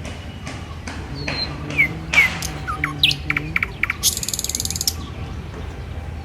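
Birds chirping and calling: a quick run of sharp down-slurred chirps and clicks, then a fast rattling trill about four seconds in.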